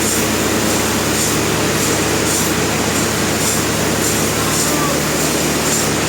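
Industrial sawmill machinery running steadily, a dense mechanical din with a constant low hum and a faint high hiss pulsing about once a second.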